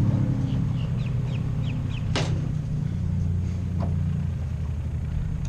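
Airboat engine idling low and steady as the boat comes in to the dock, its pitch settling down at the start. A single sharp click about two seconds in.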